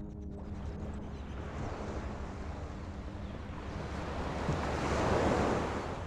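Ocean waves washing against the shore, with wind on the microphone; a wave swells up about five seconds in and falls away near the end.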